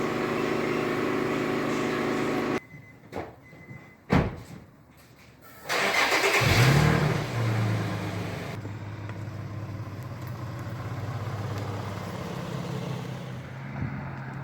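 A steady running hum cuts off suddenly, followed by a few knocks and one sharp thump. Then the Infiniti G35's 3.5-litre V6 cranks and catches with a brief rise in revs, and settles to a steady idle.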